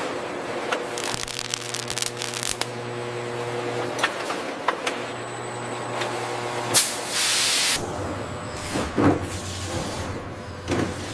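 Production-line machinery running with a steady hum, scattered clicks and knocks, and a loud hiss lasting about a second around seven seconds in.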